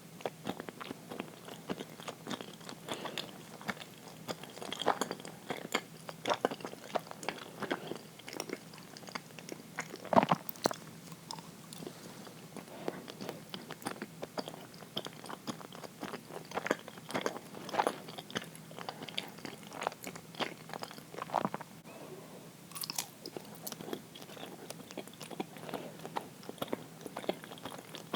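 Close-miked chewing of uirō, a soft, sticky sweet rice-flour jelly: a steady run of small wet mouth clicks and smacks, with one louder one about ten seconds in.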